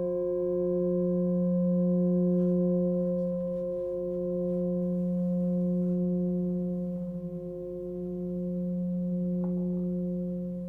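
Hand-forged Nepalese singing bowl, 22.3 cm across and tuned to the note F at about 179 Hz, ringing with a sustained deep tone and higher overtones. The sound swells and fades in slow waves.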